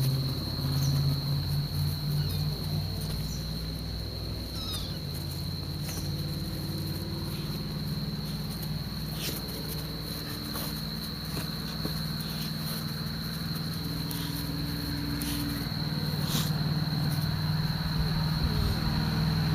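Insects trilling steadily at one high pitch, over a steady low hum and a few scattered clicks.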